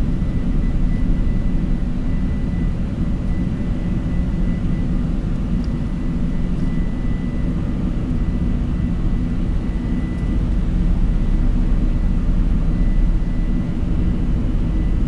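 Boeing 747 on its takeoff roll at takeoff thrust, heard from the cockpit: a steady low rumble of the engines and the aircraft rolling down the runway, with a faint steady high tone above it.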